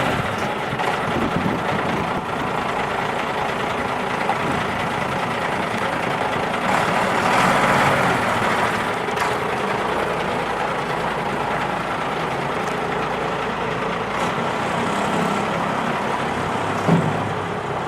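1995 International 4700's six-cylinder diesel engine idling steadily, getting louder for a couple of seconds about seven seconds in, with a brief sharp sound near the end.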